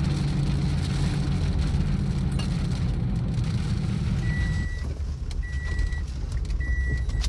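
Steady low rumble that eases off about two-thirds of the way through. Shortly before it eases, an electronic warning chime starts, beeping about once a second with a single steady tone.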